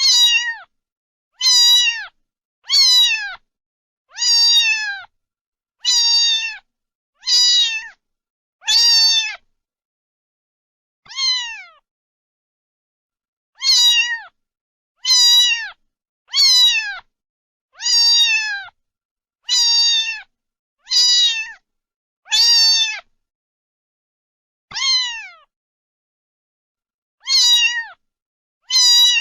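A cat meowing again and again: about nineteen short meows, each starting high and falling in pitch, separated by gaps of dead silence.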